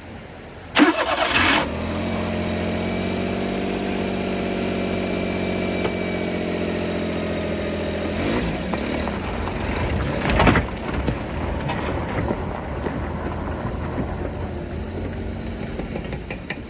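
Kei truck engine cranked and catching about a second in, then running at a steady fast idle. Its pitch drops about eight seconds in, with a single thump a couple of seconds later.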